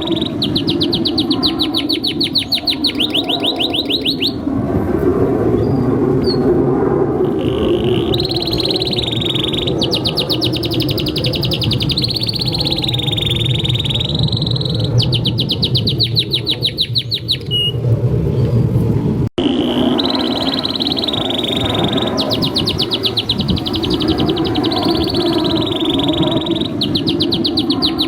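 Domestic canary singing in long, rapid rolling trills, phrase after phrase with short breaks between them, over a steady low background noise. The sound drops out for an instant about 19 seconds in.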